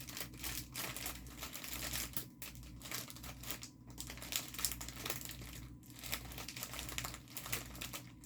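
Small plastic bags of diamond painting drills crinkling continuously as they are handled and sorted through.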